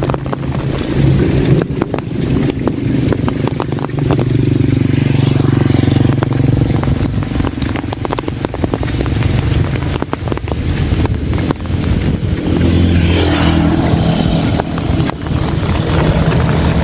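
Heavy rain pattering on an umbrella, with many sharp drop clicks, over a low steady motor hum that drops in pitch about twelve seconds in.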